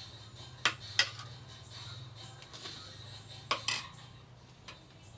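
Eating utensils clinking against dishes: two pairs of sharp clinks, one about a second in and another about three and a half seconds in, over a steady low hum.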